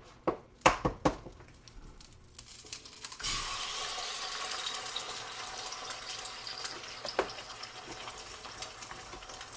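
A few sharp knocks in the first second. About three seconds in, a sudden sizzle starts as egg meets hot butter in a vintage 1940s Lodge cast iron skillet, and it keeps on steadily; the cook thinks the heat may be a little too high.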